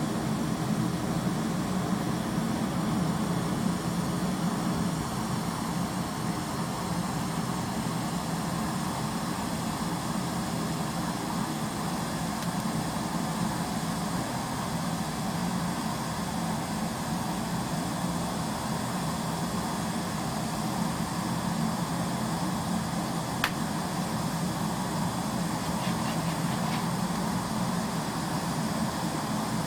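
A fire burning hard in a metal bin: a steady, low rushing drone, with one sharp click about 23 seconds in.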